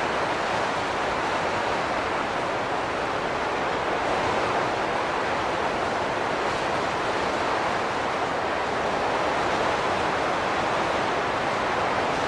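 Wind blowing steadily, an even rush of noise with no whistling tones or distinct gusts.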